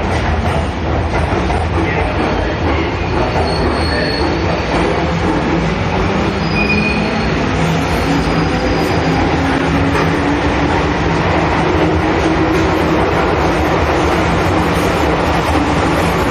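Keihan electric train moving along the underground platform: a loud, steady rumble of wheels on rails, with a few faint, brief high squeals. A motor hum slowly rises in pitch in the second half.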